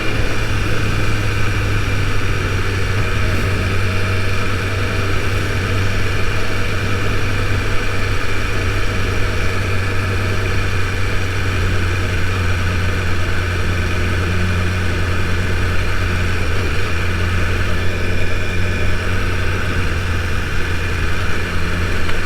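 BMW S1000RR's inline-four engine running steadily at low revs, with an even low hum that neither rises nor falls.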